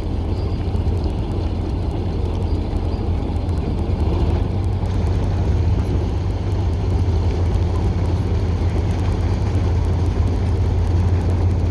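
Narrow-gauge TU6A diesel locomotive running along the track, its YaMZ-236 V6 diesel engine pulling at a steady, even drone with a strong low hum.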